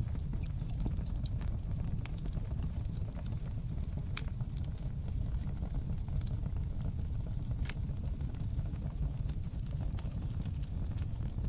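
Wood fire crackling in a fireplace: a steady low rumble of flames under many quick, sharp pops and snaps, with two louder pops about four and seven and a half seconds in.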